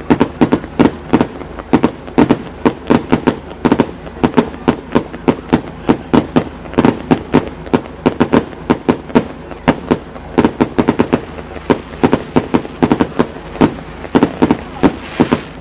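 Aerial fireworks going off in a rapid barrage: loud bangs several times a second, without a break.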